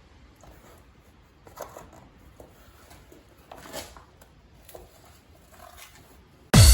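Faint rustling and a few soft clicks and knocks of handling in a small room. Electronic dance music with a heavy beat starts suddenly near the end.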